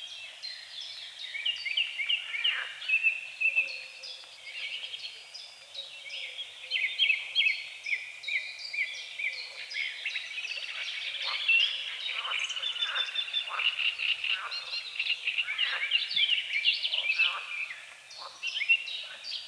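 Dawn chorus over a lake: many songbirds chirping, trilling and calling at once in a dense, overlapping mix, with frogs croaking among them.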